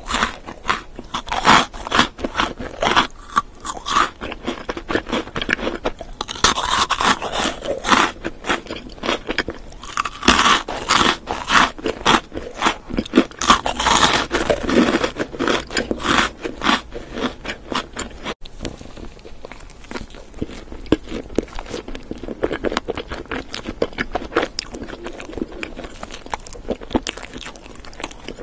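Close-miked ASMR eating sounds: a person chewing and biting food, with many crisp crunches and mouth clicks coming in dense runs.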